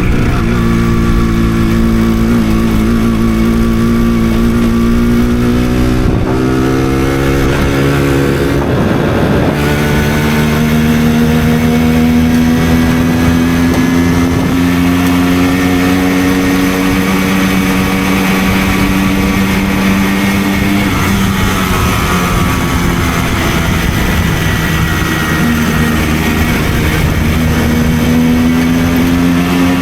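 Simson two-stroke moped engine running at riding speed, a steady engine note whose revs dip and pick up again twice, about a third of the way in and again past two-thirds.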